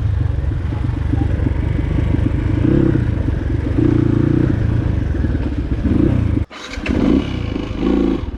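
Dirt bike engine running on a trail ride, with rattling and clatter from the bike. It breaks off suddenly about six and a half seconds in, then comes back less even.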